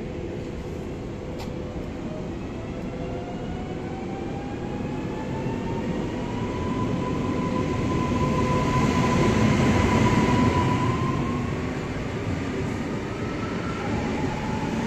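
Electric multiple unit commuter train pulling away from the platform. Its traction motors give a whine that climbs steadily in pitch as it picks up speed, then holds, and rises once more near the end. Under it the rumble of the wheels grows loudest as the middle of the train passes.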